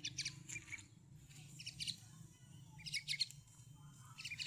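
A pet bird chirping in four quick clusters of short, high chirps, about a second apart, over a faint low steady hum.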